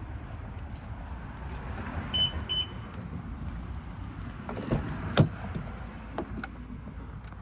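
Two short high beeps about two seconds in, then clicks and a single loud thump about five seconds in, typical of a 2003 Toyota Tundra pickup's door being opened and shut before the engine is started, over a low steady rumble.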